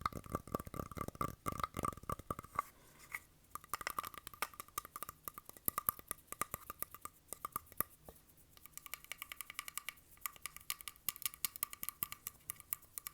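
Fast ASMR tapping and clicking on a hard object, many taps a second. The first couple of seconds are heavier and thuddier, then lighter, sharper clicks follow, with a ringing note under the taps at the start and again in the second half.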